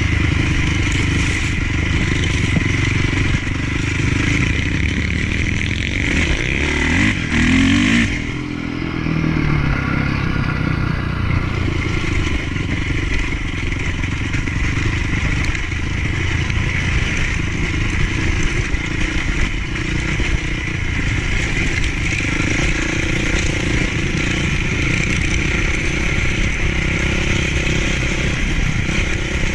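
Honda CRF450 motocross bike's single-cylinder four-stroke engine running under throttle while being ridden. About seven seconds in the revs rise, then drop sharply as the throttle is shut off, before it settles back into steady running.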